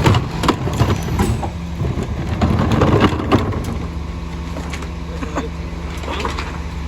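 Garbage truck engine running steadily, with a series of knocks and clatters in the first half as material is handled.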